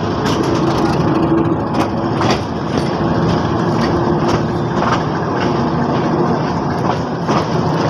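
Slow passenger train heard from an open coach doorway, running at a crawl over rough, unballasted track: a continuous rumble and rattle with a steady drone underneath and irregular sharp knocks and clanks from the wheels and couplings.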